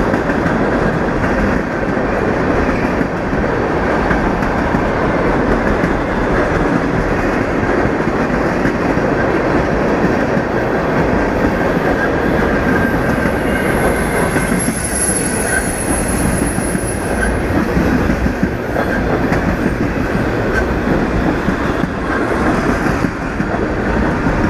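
Union Pacific freight cars rolling past at close range, wheels clattering over the rails in a steady loud rumble. A thin, high wheel squeal rises briefly around the middle.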